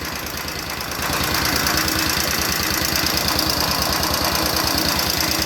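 1945 Cushman Model 54 scooter's single-cylinder flathead engine idling with an even, rapid beat of firing strokes. It gets louder about a second in and holds steady from there.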